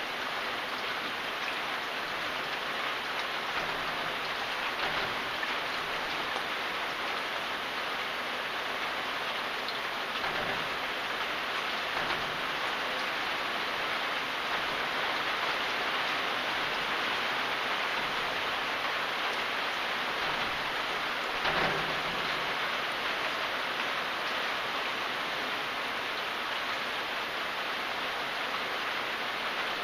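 Steady rain falling and pattering on surfaces, with one brief louder thud about two-thirds of the way through.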